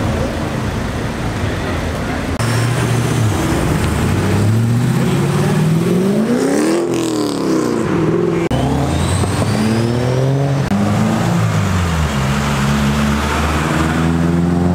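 Car engines revving and accelerating away, one car after another; the engine note climbs and drops several times.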